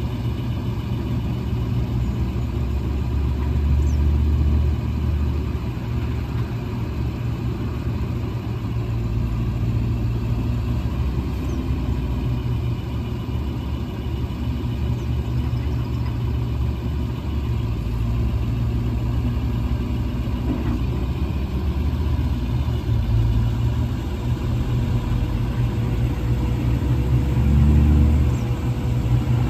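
1999 International 4700 truck's 7.3L International diesel engine idling steadily, briefly getting louder about four seconds in and again near the end.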